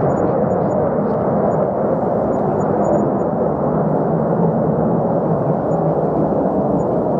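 Fighter jet engine noise: a steady, dull low rumble with no sharp whine.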